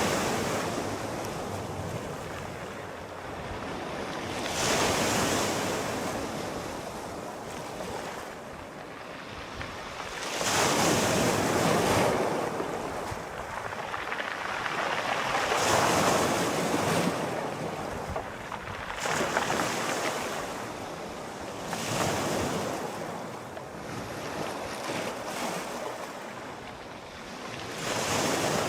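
Sea waves breaking and washing ashore, the surf rising and falling in surges every five or six seconds.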